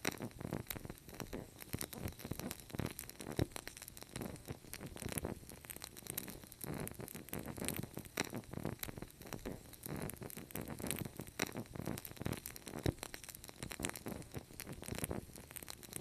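Wood fire crackling, with many irregular pops and snaps over a soft steady hiss; a few sharper pops stand out, about three and a half seconds in and near thirteen seconds in.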